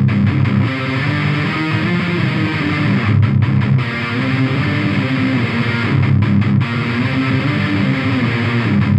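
Electric guitar played through an Eagletone Biyang OTD 100 distortion pedal, with a 12AX7 tube inside, set with every knob at maximum except the volume, into a small amp: a heavily distorted riff with sustained notes.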